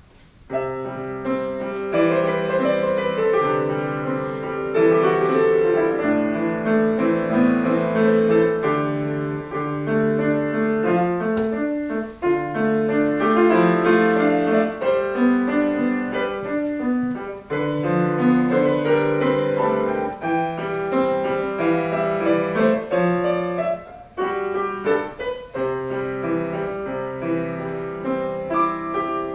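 Solo piano playing a classical piece, with many overlapping notes in a moving melody over chords; it begins about half a second in after a quiet pause.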